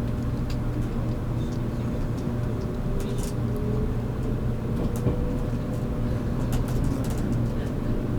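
Running sound heard inside a JR Kyushu 783 series electric train's motor car: a steady low rumble and hum from the running gear and traction motors, with a faint whine that rises slowly in pitch as the train picks up speed, and light scattered ticks.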